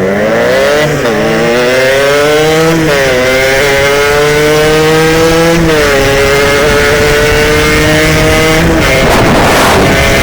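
Two-stroke motorcycle engine pulling hard through the gears: the revs climb and drop back at each upshift, three times, then hold steady at speed. A rushing noise swells near the end.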